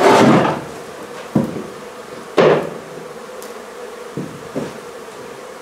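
Honey bees buzzing steadily in a hive inside a wall, broken by about five sharp knocks, the loudest near the start and about two and a half seconds in.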